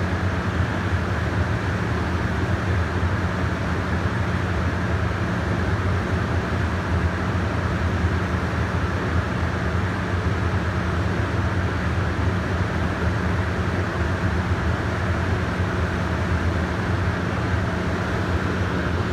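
Steady low hum and rumble of idling railway equipment at a station platform, unchanging throughout.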